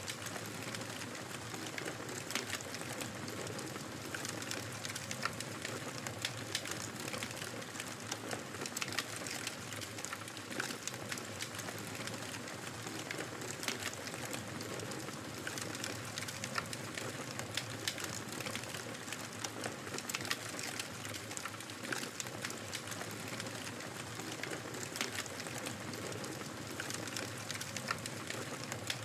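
Wood fire crackling: a steady hiss with many small, sharp pops at irregular intervals.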